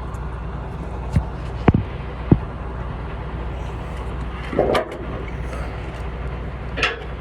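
Ratchet strap being tightened on a flatbed load, three sharp clicks in the first few seconds and two short rasps later, over a steady low hum of an idling truck engine.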